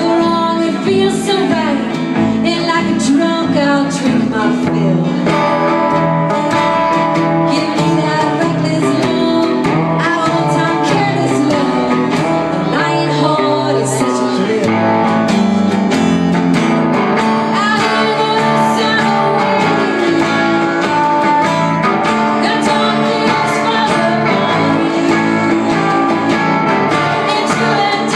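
Live country song: a woman singing over plucked and strummed guitar.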